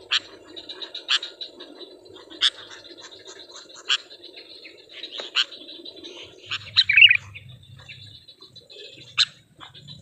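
Sooty-headed bulbul (kutilang) giving short, sharp call notes about every second or so, with a quick run of notes about seven seconds in. The calls come from caged decoy birds being accustomed to the outdoors.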